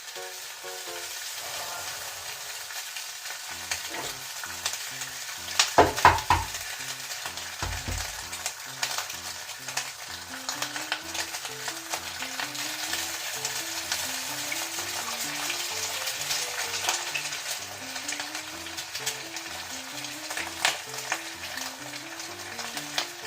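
Oil sizzling in a square iron frying pan during seasoning, with scattered clicks and a few louder knocks about six seconds in.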